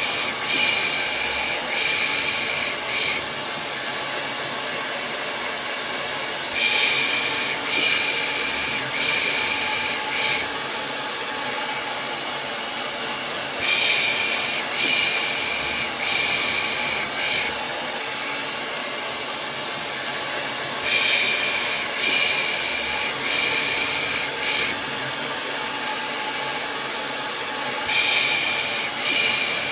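Steady hair dryer blowing noise, with a soothing 'pış pış' shushing for lulling a baby to sleep laid over it. The shushing comes in groups of about four hisses, repeating about every seven seconds.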